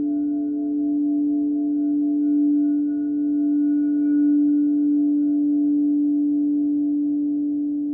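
Crystal singing bowls ringing in one steady, sustained tone with fainter higher overtones above it. The loudness swells gently and starts to fade near the end.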